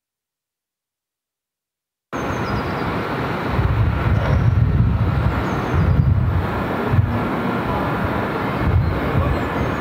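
Silence, then about two seconds in the sound cuts in abruptly: a train running with a steady rumble and deep low swells that rise and fall several times.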